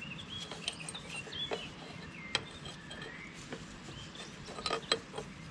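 Small birds chirping in the background, with scattered sharp metallic clicks and taps from hand work on hydraulic hose fittings, two of them louder, about two and a half and five seconds in.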